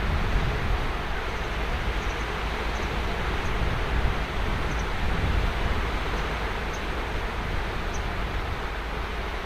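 Ocean surf washing onto a sandy beach: a steady rushing noise with a deep rumble underneath.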